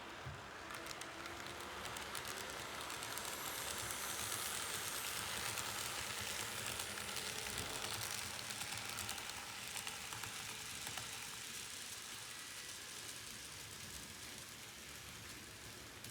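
A train running past on the track: a hissing rolling noise with faint clicks swells to a peak about five to eight seconds in, then slowly fades.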